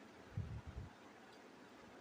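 A quick cluster of three or four muffled low thumps about half a second in, over faint room hiss.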